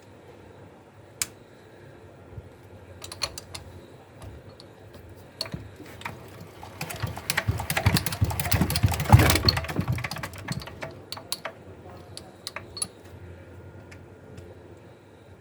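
Hatz diesel engine being cranked by hand for a restart: scattered clicks and knocks, then about halfway through a few seconds of rapid, rhythmic chuffing as the engine turns over against its high compression. The chuffing dies away without the engine catching.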